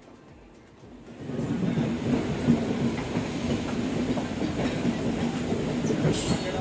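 Passenger express train running on the rails, a steady rumble and clatter of wheels on track that comes in suddenly about a second in.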